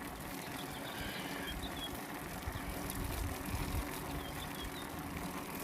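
Bicycle ridden uphill on a paved road: a steady rolling noise of tyres and drivetrain with a faint low hum.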